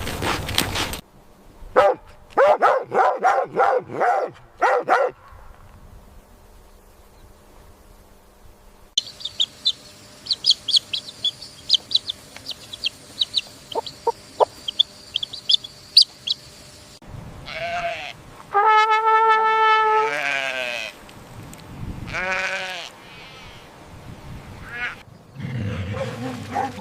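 Goats bleating: a quick run of short bleats, later one long wavering bleat. Between them comes a stretch of rapid high chirping calls.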